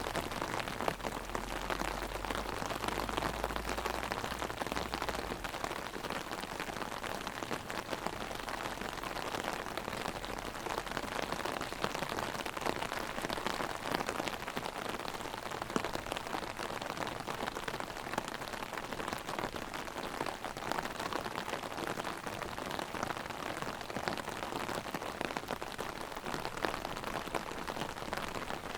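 Heavy rain hitting an umbrella overhead: a dense, steady stream of drop hits. A faint low rumble sits under it in the first few seconds.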